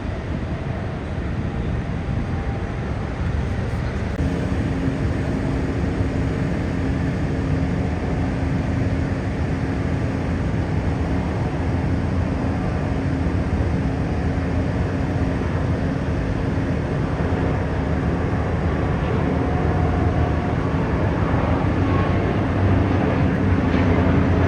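Aircraft engine noise: a steady roar with a low hum that comes in about four seconds in, slowly growing louder.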